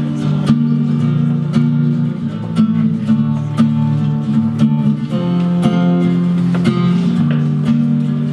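Acoustic guitar strumming chords in a steady rhythm with no singing, with a strong strum about once a second.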